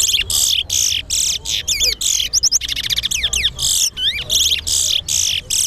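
Caged towa-towa (large-billed seed finch) singing in competition: a fast, unbroken run of sharp chirps and quick rising-and-falling whistles, several notes a second.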